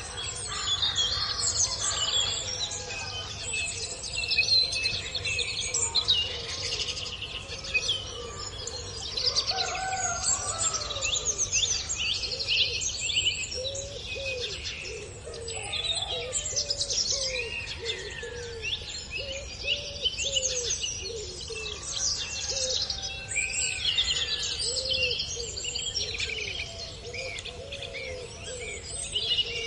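A chorus of several birds chirping and singing, with quick high trills throughout. A lower call repeats steadily from about a third of the way in.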